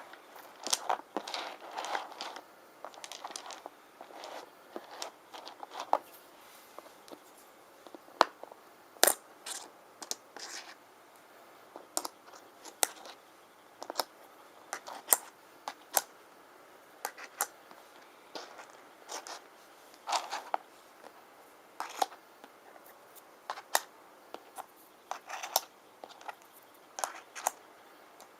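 Stone rune tiles being handled: irregular clicks as they knock together, with brief scratching and rustling between.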